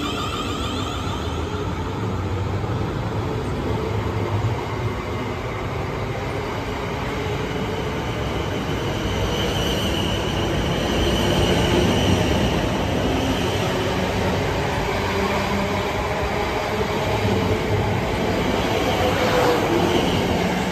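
Class 444 electric multiple unit moving past along the platform: a steady rumble of wheels and running gear, with a high whine around the middle.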